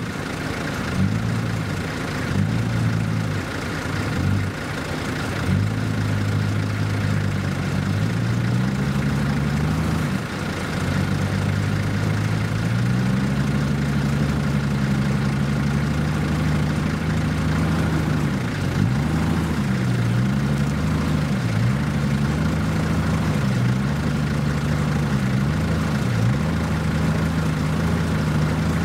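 Four-wheel drive's engine working at low revs on an off-road obstacle. The revs hold steady for stretches and drop and pick up again several times, with a quick run of dips a little past the middle.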